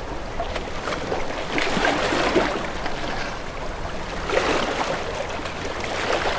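Sea waves lapping and splashing against a boat's hull, swelling twice: about a second and a half in and again about four seconds in.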